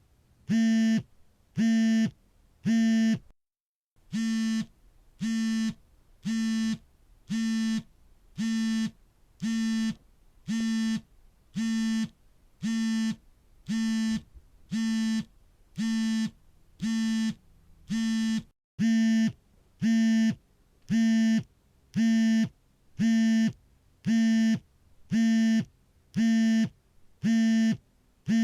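Mobile phone vibrating on an incoming call: short, even buzzes of its vibration motor, about three every two seconds. The buzzing breaks off for an instant twice, about three seconds in and again past the middle, then resumes.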